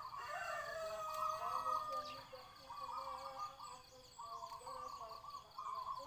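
Birds calling in a run of short, warbling phrases, one after another.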